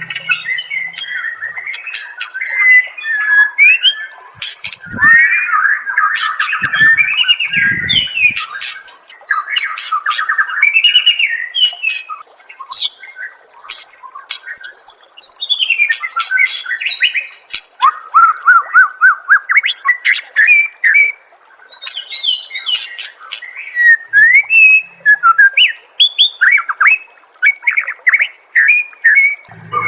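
White-rumped shama (murai batu) singing a long, varied run of fast whistled phrases, rapid repeated-note trills and chatters, with brief pauses between phrases.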